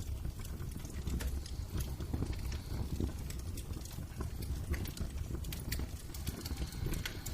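Fire crackling in a fireplace: irregular pops and snaps over a low, steady rumble.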